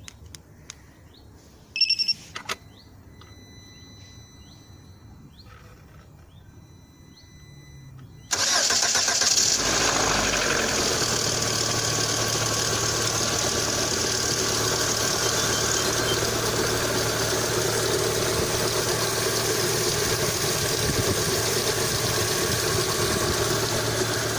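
A short electronic beep about two seconds in; about eight seconds in, the Lada Kalina 2's VAZ-21126 16-valve engine starts and settles into a steady cold idle, with no clear hydraulic lifter knock.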